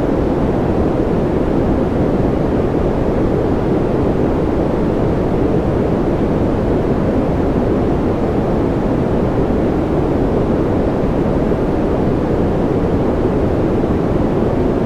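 Continuous noise track for sleep, a steady even hiss weighted toward the low and middle pitches with little top-end sizzle, giving a dark, rumbling wash with no individual drops, tones or changes.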